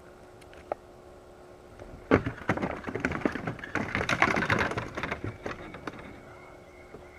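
A burst of rapid clicking and clattering, many sharp knocks close together, that starts about two seconds in and dies away about four seconds later.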